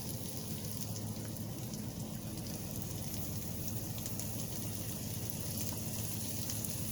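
Peppers and onions sizzling as they fry in an Instant Pot, a steady fine crackle, with a faint low hum underneath.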